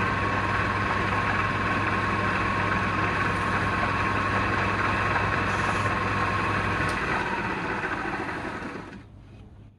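Electric woodturning lathe running steadily with a constant hum and whine. About seven seconds in the motor is switched off and the machine coasts down to a stop over about two seconds.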